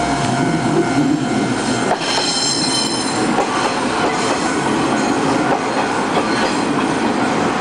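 Taiwan Railways diesel railcar train passing close by at a level crossing, its wheels clattering on the rails in a steady loud rumble, with a high squeal of the wheels from about two seconds in.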